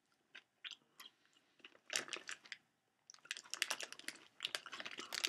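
Chewing and crunching of candy-shelled M&M's, a few scattered crunches at first, then denser crunching with crinkling of the plastic candy bag as it is lifted, from a little past halfway.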